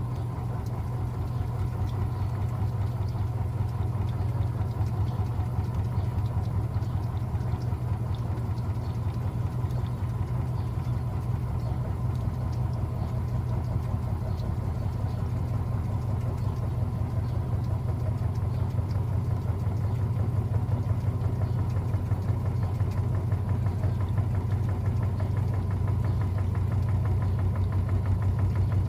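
Electrolux LTA15 top-loading washing machine running its wash cycle with a steady, low motor hum and a fine, even pulse, getting a little louder in the last third.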